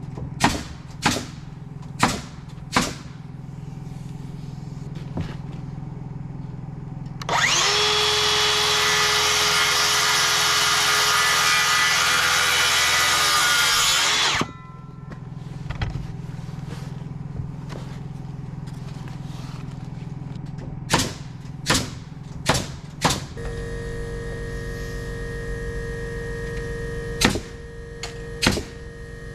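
Power saw running through a cut in lumber for about seven seconds, its pitch sagging as it winds down at the end. Before and after the cut come separate sharp knocks, four at the start and several more near the end.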